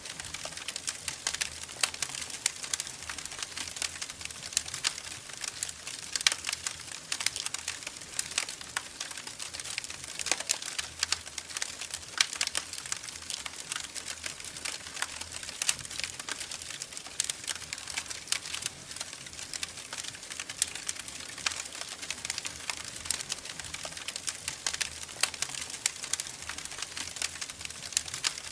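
Wood fire crackling in a fireplace: a dense, irregular run of small snaps and ticks with a few louder pops scattered through.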